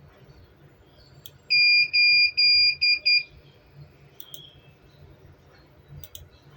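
Electronic buzzer of a CCTV recorder beeping on one high steady tone: three longer beeps, then two short ones. A few sharp clicks follow.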